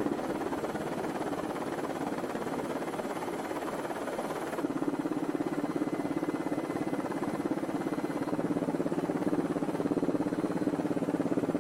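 Steady helicopter engine and rotor noise with a fast, even pulsing. A droning hum joins it about five seconds in.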